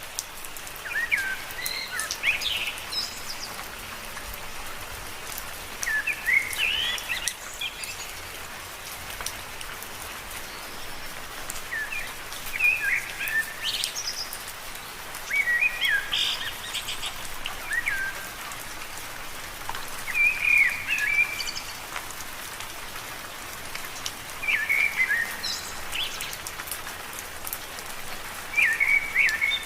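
Steady rain falling on leaves, with fine drop ticks throughout. Over it come short chirping calls in brief clusters, repeating about every two to four seconds.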